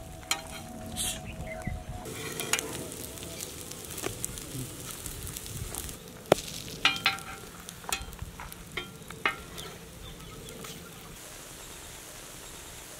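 Slices of French toast frying on a large flat griddle, sizzling steadily. Over the first nine seconds or so a metal spatula scrapes and clicks sharply against the griddle several times.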